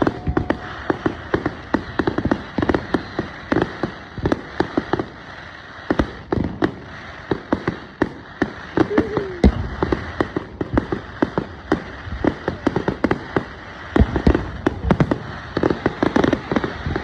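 Fireworks going off: a dense, continuous barrage of sharp bangs and pops, several a second, with heavier clusters now and then over a constant crackle.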